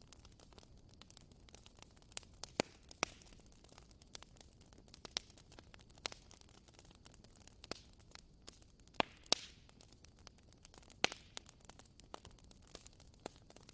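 Wood fire crackling: irregular sharp pops and snaps over a faint steady hiss, with a handful of louder pops standing out.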